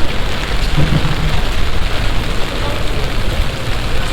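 Heavy summer downpour: a steady, loud rush of rain pouring down and splashing on surfaces.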